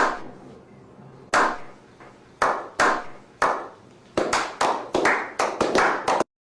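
Hand clapping: sharp claps, slow and spaced at first, then speeding up to a quick run of about ten, stopping abruptly.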